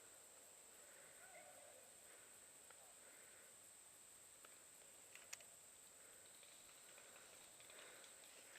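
Near silence: faint outdoor ambience with a steady high hiss and one small click about five seconds in.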